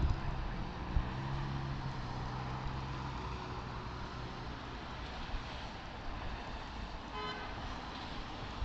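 Steady road and engine noise from traffic, with a car horn honking: a held tone in the first few seconds and a short toot about seven seconds in.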